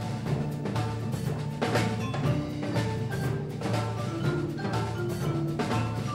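Percussion music: a dense run of quick struck notes over held low pitched tones, with no speech.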